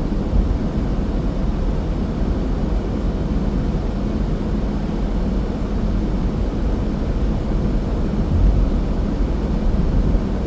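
Steady low rumble of a car driving: road and engine noise with a faint even hum.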